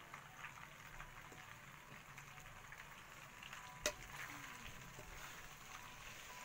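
Faint sizzling of pasta frying in a metal kadhai over a wood fire, with small crackles and a spatula stirring in the pan. A single sharp knock sounds about four seconds in.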